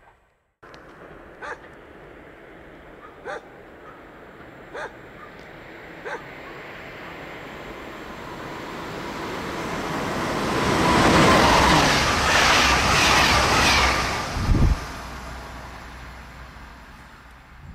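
A fast electric train passes through the station at speed: its rushing noise swells from about eight seconds in, is loudest for a few seconds, gives a low thump, then fades away. Earlier, a dog barks four times.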